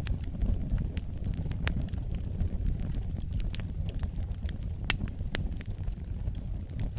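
Campfire burning: wood crackling with irregular sharp pops and snaps over a steady low rumble.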